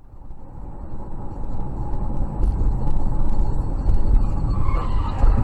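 A car driving: a steady low rumble of engine and road noise that swells over the first second, then holds.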